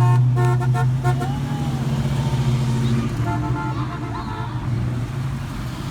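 Car horn sounding in two quick runs of short beeps, one at the start and one a little past the middle, over a car engine running steadily close by.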